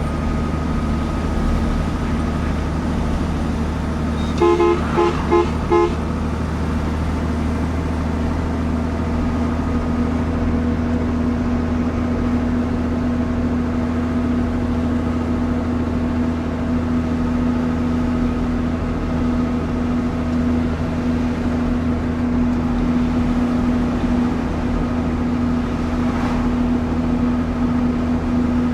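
Truck engine running steadily while driving, a constant low drone. About four seconds in, a horn gives four quick toots.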